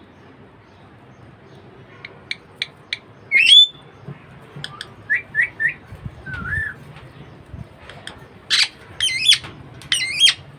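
Budgerigar chirping and warbling: after about two quiet seconds come scattered short chirps and one rising whistle, then a run of louder, quick warbling calls near the end.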